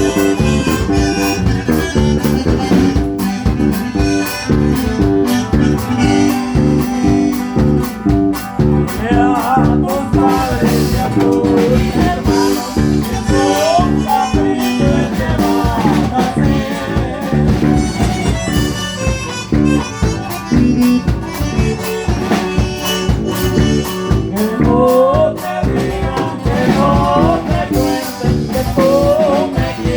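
Norteño band playing live: an accordion carries the melody over bajo sexto and bass, with a steady rhythm throughout.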